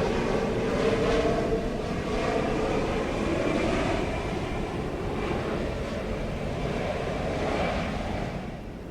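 Jet airliner engines running, a loud steady noise with a whine through it, easing off near the end.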